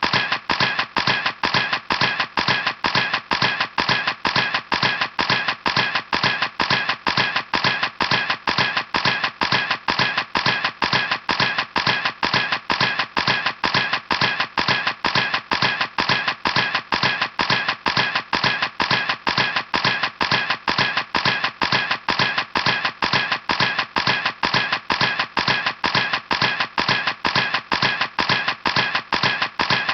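Camera shutter clicking over and over in an even, rapid rhythm, about three clicks a second, each a sharp snap that dies away quickly.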